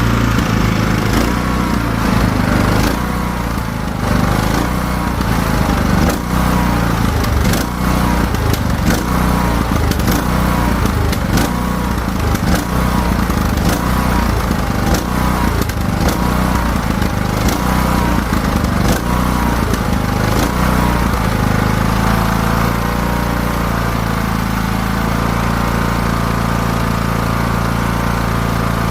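Craftsman T1600 riding mower's engine running while mowing, its speed rising and falling about once a second in a regular surge, then settling to a steady speed about two-thirds of the way through; sharp clicks and knocks come through now and then. The surging persists after a new carburetor was fitted, and the owner doesn't know its cause.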